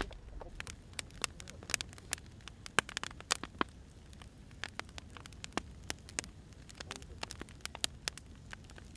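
Wood fire burning, with irregular sharp crackles and pops from the burning firewood over a low steady rumble.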